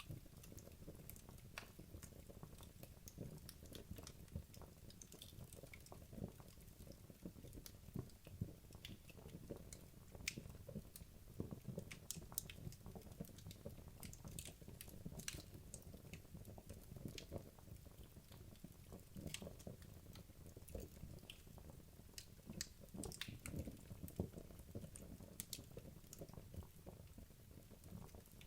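Wood logs burning in a fireplace, crackling quietly: frequent irregular snaps and pops over a soft low rumble of the fire.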